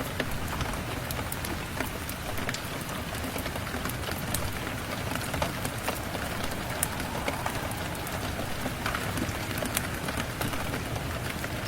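Steady rain, with many scattered sharp clicks and ticks through it.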